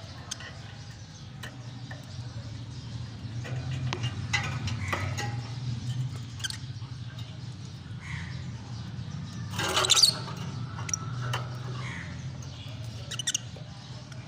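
Lovebirds chirping and squeaking in short, scattered calls, with one louder, harsher call about ten seconds in, over a steady low hum.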